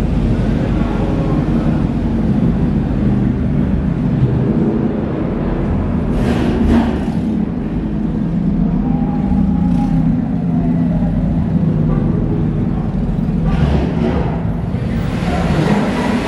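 Car engines running loudly with a deep, steady rumble, broken by brief louder bursts of revving about six, ten and fourteen seconds in.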